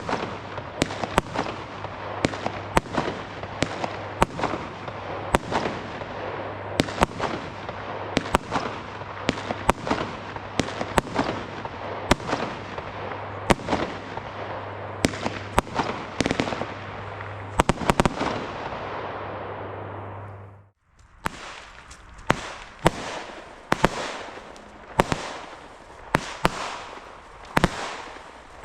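Weco Supreme Force consumer firework shooting a rapid series of shots, a bang every second or less over a steady crackling hiss. After a sudden cut about three-quarters of the way through, the Weco Infinity Fire firework fires its own string of shots, about one a second.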